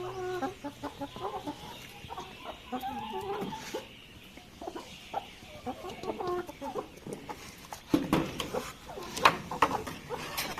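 Chickens clucking in short, repeated calls, with a few sharp knocks and rustles in the last couple of seconds.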